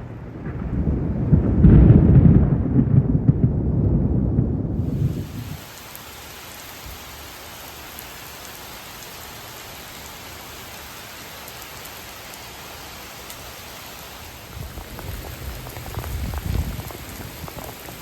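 A loud low rumble of thunder swells and fades over the first five seconds. About five seconds in, the steady hiss of heavy rain starts suddenly. A fainter roll of thunder comes near the end.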